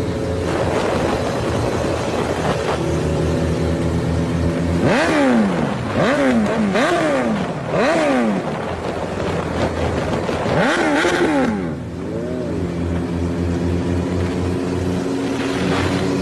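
Four-cylinder engine idling steadily, then revved in four quick blips about five seconds in and once more near the eleven-second mark, the pitch rising and falling with each rev before settling back to idle.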